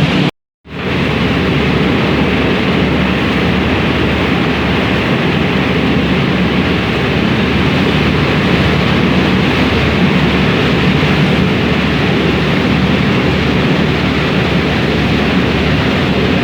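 Steady drone of a passenger ferry under way, its engines humming under a rush of water and wind noise. The sound cuts out for a moment about half a second in, then resumes unchanged.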